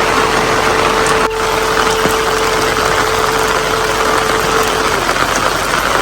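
Heavy rain pouring down in a dense, steady hiss. Over it a single held musical note sounds and fades out about five seconds in.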